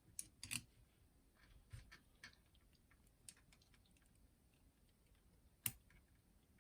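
Faint, scattered clicks and taps of a small hook tool and plastic parts being handled inside an open cassette deck while its belts are fitted, the sharpest click about five and a half seconds in.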